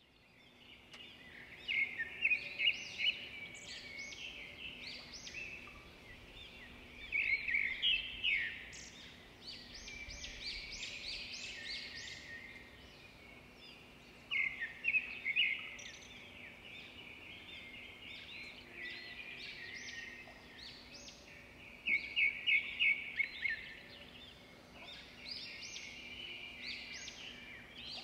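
Birds chirping and twittering, with a run of fast trilled notes that comes back louder every several seconds.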